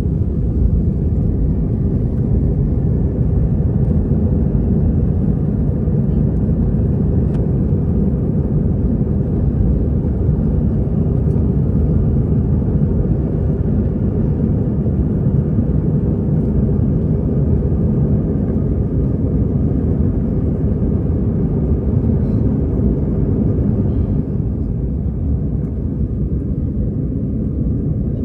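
Airbus A320-214 airliner heard from inside the passenger cabin: the steady, loud, low noise of its CFM56 jet engines under power and the airflow over the fuselage, dipping slightly about twenty-four seconds in.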